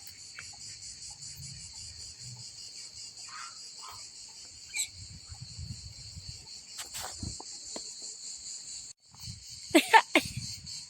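Steady high-pitched insect chorus. It cuts out briefly about nine seconds in, and two short loud calls come about ten seconds in.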